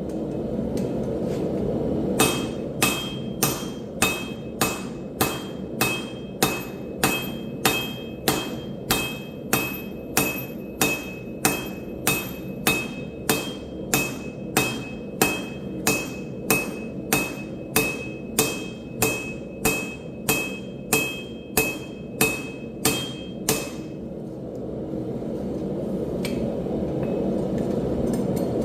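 Hand hammer striking hot steel on an anvil in a steady rhythm of about two blows a second, each blow with a bright ringing tone; the hammering stops a few seconds before the end. A steady low rushing noise runs underneath and grows louder after the hammering stops.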